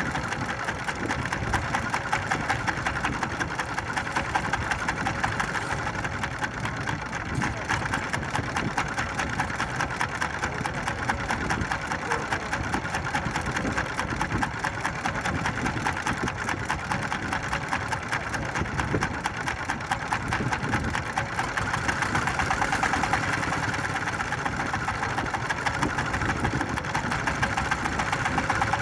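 Small fishing boat's engine running steadily with a fast, even chugging beat.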